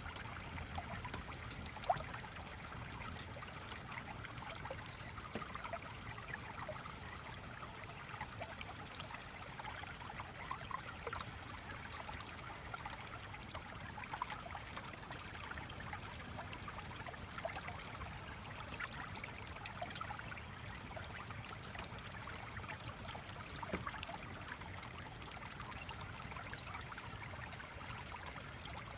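Flowing stream: steady trickling, babbling water, with a few faint sharp clicks, the loudest about two seconds in.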